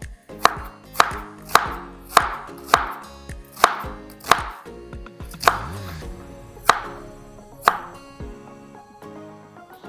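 Knife chopping food on a cutting board: about ten sharp chops, roughly two a second at first, then slower and more spaced out.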